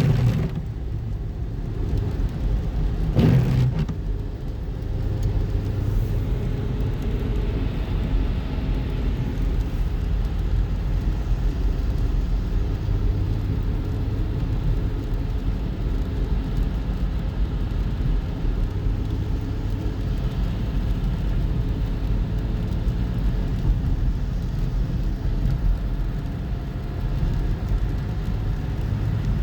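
Road noise of a moving car heard from inside the cabin: a steady low rumble of engine and tyres, with a brief louder swell about three seconds in.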